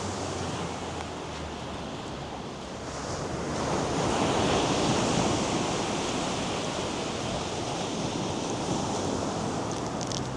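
North Sea surf: waves breaking and washing up the sandy beach, one swelling loudest about four seconds in and then slowly easing, with wind on the microphone.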